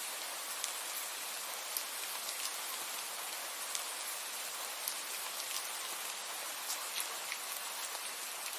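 Steady rainfall: an even hiss of rain with many separate drops ticking sharply on a surface close by.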